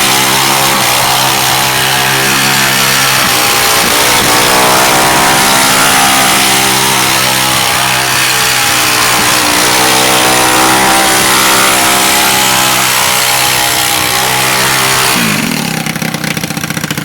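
Mini bike's small engine held at high, steady revs, as for a rear-wheel burnout, with a hiss over the top; near the end the revs fall away and it drops back.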